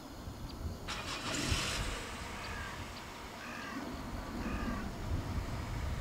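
A distant bird gives a few short calls, spaced about a second apart, over a steady low outdoor rumble; a brief burst of hiss comes about a second in.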